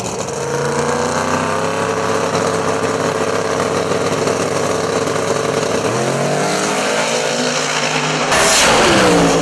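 Drag race car engine running at a steady pitch, changing pitch about six seconds in. Near the end a loud rushing burst, with the engine pitch falling after it.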